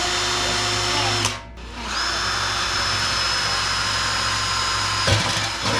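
Power drill running a drill bit into steel to drill a hole for a hinge screw: a steady whine that stops briefly about a second in, then runs again for about three seconds before a sharp jolt and wind-down near the end.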